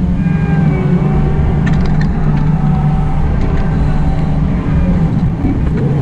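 Excavator diesel engine running steadily under load, with whining tones over the drone and a few light clicks.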